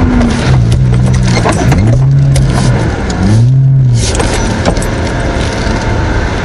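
Porsche Boxster's flat-six engine heard from inside the cabin, driven hard: the revs climb and fall back twice in quick succession about two and three and a half seconds in, as the throttle is worked through the course. Clicks and rattles from the cabin come through over the engine.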